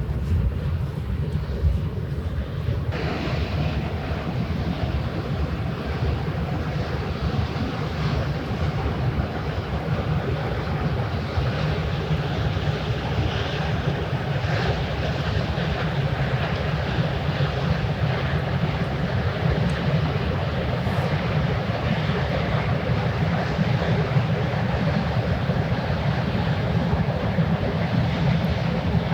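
Steady low engine drone of a passing ship or barge, mixed with wind and water noise; the hiss of wind and water gets louder suddenly about three seconds in.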